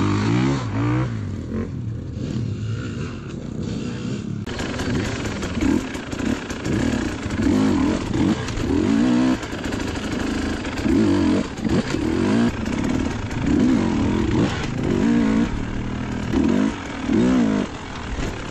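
Dirt bike engine revving up and dropping back over and over, the throttle opened and shut about once a second as the bike is ridden, with a quieter stretch in the first few seconds.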